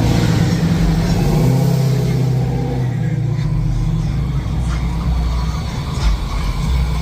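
A car engine running with a steady, deep exhaust rumble.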